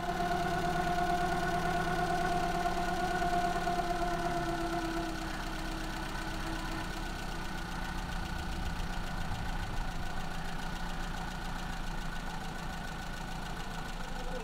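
Maruti Zen's carburetted petrol engine idling. Its speed eases down over the first few seconds as the idle speed adjusting screw is turned back toward 900 rpm, after an idle mixture adjustment had raised the revs. It then runs steadily at idle.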